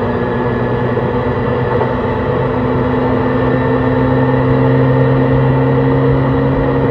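Onboard running sound of a JR East E131-600 series electric train: the traction motors and their Hitachi hybrid SiC inverter hum in several steady tones over rail noise. The pitch and loudness rise slowly as the train gathers speed.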